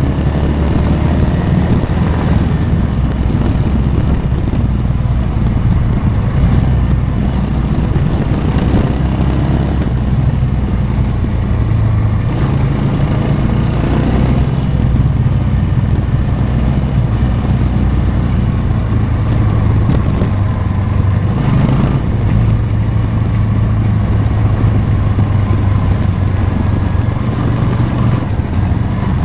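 Motorcycle engine running steadily while riding, with small rises and falls in pitch as the throttle changes.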